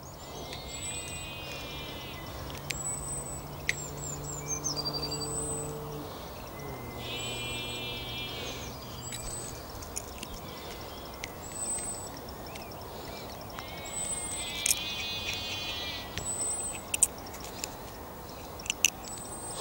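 Birds calling outdoors: one bird repeats the same short call about every six or seven seconds, with thin high notes from other birds in between. A low steady hum runs under the first half and stops about halfway through, and a few light clicks come near the end.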